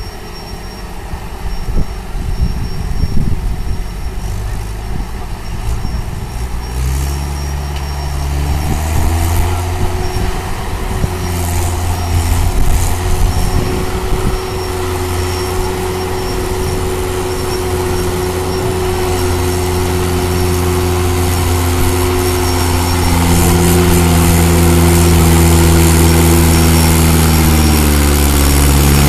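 Mahindra 575 DI tractor's diesel engine running. A rough, noisy rumble for the first several seconds gives way, about seven seconds in, to a steady engine note, which starts to rise near the end.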